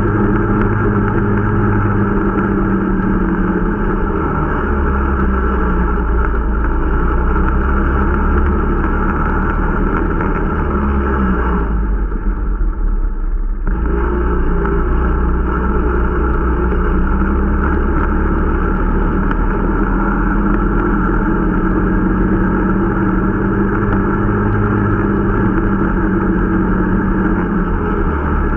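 Irbis Dingo T125 snowmobile's 125 cc four-stroke engine running under way during break-in, a steady drone whose pitch shifts slightly now and then. About halfway through, the sound goes briefly muffled for a couple of seconds.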